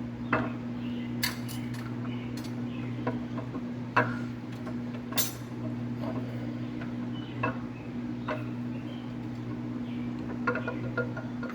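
Irregular light metallic clinks and taps of engine parts being handled by hand, over a steady low electrical hum.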